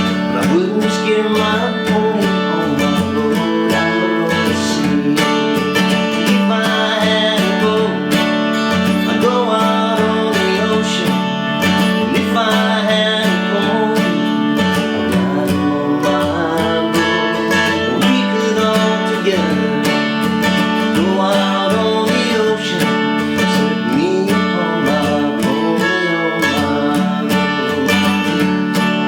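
Acoustic guitar playing an instrumental passage of a country-folk song, strummed chords with melody notes over them.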